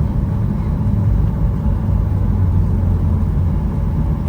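Airliner cabin noise while taxiing: a steady low rumble from the engines and the aircraft rolling along the ground.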